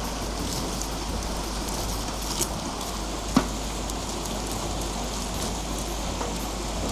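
Steady rushing water of a mountain stream, with two short sharp clicks, the louder about three and a half seconds in.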